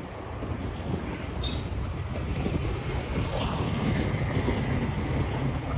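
Motorbike riding along a road with a steady low engine drone, under wind buffeting the microphone.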